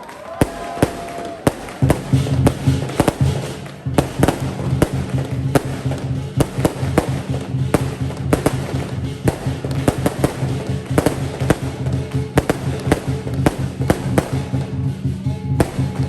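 A string of firecrackers crackling in rapid, irregular pops that get denser about four seconds in, over lion dance music.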